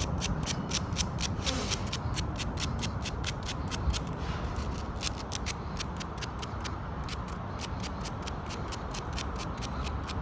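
Small piece of sandpaper rubbed quickly back and forth over rusted metal ignition contacts, an even scratching of about four to five strokes a second, sanding off the rust so the contact can carry a better spark.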